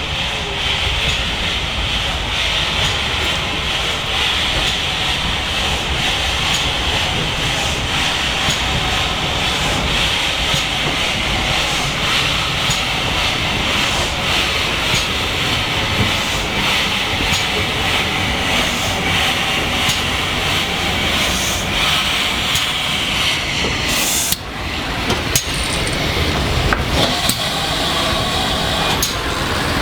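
GWR Churchward 2800-class 2-8-0 steam locomotive No. 2857 giving off a steady hiss of steam, broken briefly about 24 seconds in, with a few clicks near the end.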